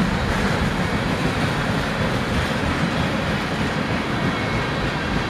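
Freight train of tank cars rolling past: a steady rumble and rattle of steel wheels on the rails.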